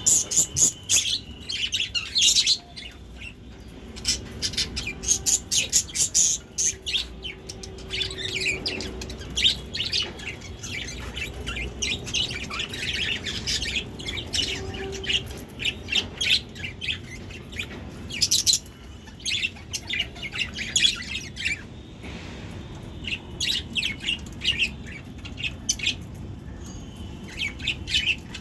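Pet budgerigars (budgies) chirping and chattering in a quick, irregular stream of short high chirps that keeps on with only brief lulls.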